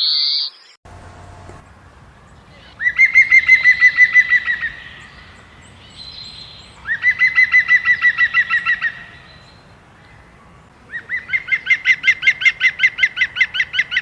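A bird singing three rapid trills of repeated notes, about eight notes a second. Each trill lasts about two seconds, and they come roughly four seconds apart.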